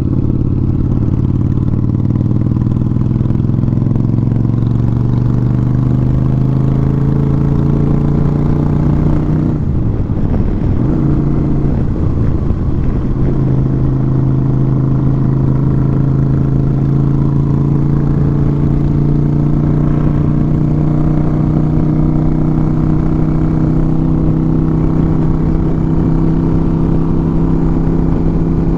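Motorcycle engine under way. Its note rises steadily for about ten seconds, breaks and drops in pitch at a gear change, then settles into a steady cruising note.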